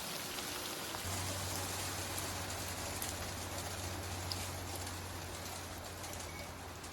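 Hail and rain pelting down: a dense, steady hiss with scattered sharp ticks of stones striking. A low steady hum joins about a second in.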